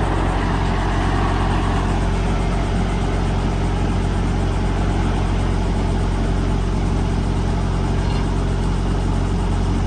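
Diesel engine running steadily: a constant low hum with a steady drone and no change in speed.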